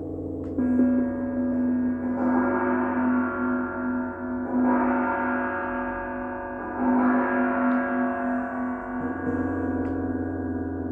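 Gong ringing continuously: long overlapping tones over a steady low hum, with a fresh stroke about half a second in and swells that rise and fade every two to three seconds, one middle tone pulsing steadily.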